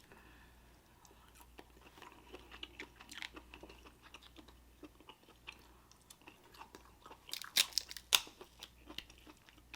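Close-miked eating of boiled shellfish: chewing with a scatter of small wet clicks and crunches, and two sharp loud shell cracks about half a second apart, a little past the middle.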